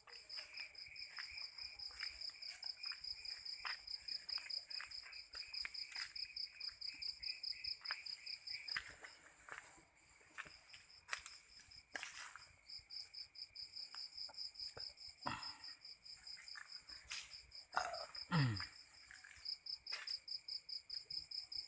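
A night insect, of the cricket kind, keeps up a fast pulsing high-pitched trill that breaks off for a moment now and then. Scattered clicks and footsteps go under it, and a brief falling-pitch sound comes near the end.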